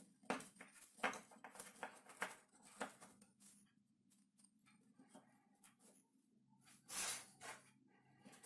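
Faint, intermittent scratching and rustling from hand work, with a louder scrape about seven seconds in, over a low steady hum.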